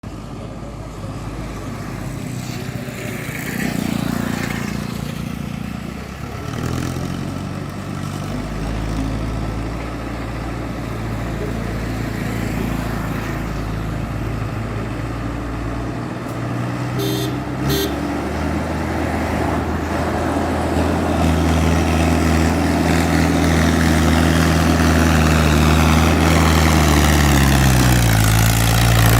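Mahindra Arjun 605 tractor's diesel engine running and growing gradually louder, its pitch dropping near the end as it slows. Two short beeps sound a little past halfway.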